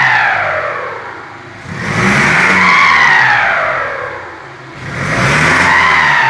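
2008 Chevrolet S10 Tornado turbo diesel being revved in repeated blips, its turbocharger fitted with a pente (whistler comb) giving a whistle that rises and falls with each rev. The whistle dies away at the start, then two more revs follow about three seconds apart.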